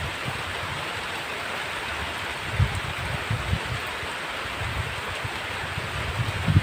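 Heavy rain falling steadily as an even hiss, with brief low rumbles a few times.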